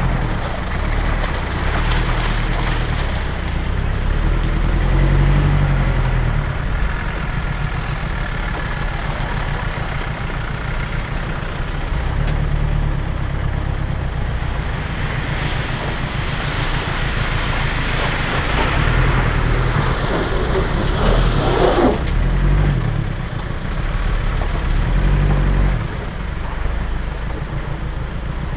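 Land Rover Discovery 1 engine running as the 4x4 crawls over rutted mud, heard from up on the bonnet, its note rising and falling with the throttle. Past the middle a louder rushing noise builds for a few seconds and then cuts off suddenly.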